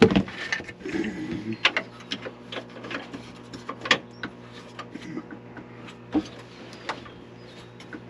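Irregular clicks, taps and light clatter of hand tools and small parts being handled during electrical panel work, with a sharp knock right at the start and a steady low hum underneath.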